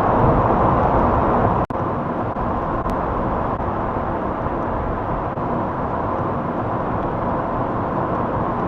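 Car driving sound effect played back from a library: a steady rush of engine and road noise. It cuts out for an instant about two seconds in, as playback switches between clips.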